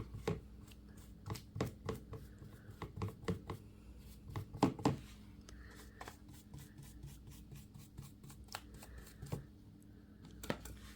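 Glue brush dabbing and stroking decoupage varnish along the edges of paper on a wooden pallet sign: irregular taps and short scraping strokes, loudest in a cluster about halfway through.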